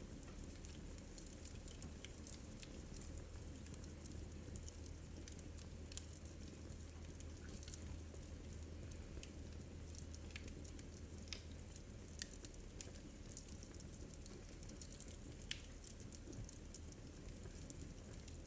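Wood fire crackling in a fireplace: a soft steady hiss and low rumble with scattered small snaps and a few sharper pops.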